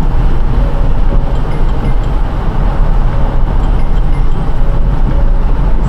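Car driving on a rain-soaked road: a steady loud rush of tyre and road noise over a deep low rumble.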